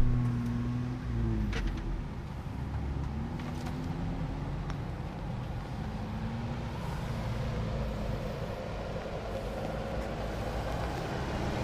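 Off-road 4x4 engine running at low crawling speed on a rocky dirt trail, its note rising and falling a little, with a few faint clicks.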